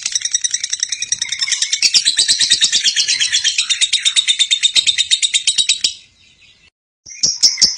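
Lovebird giving its long, rapid chattering trill (the 'ngekek'), a fast even string of high chirps at about ten a second. It breaks off abruptly about six seconds in and starts again about a second later.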